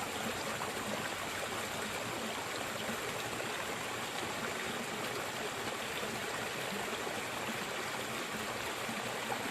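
Pondless waterfall running steadily, a continuous, even rush of falling water.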